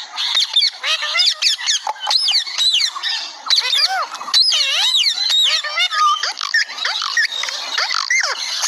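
Green parrot chattering non-stop: a continuous run of quick squawks, chirps and whistles that bend up and down in pitch.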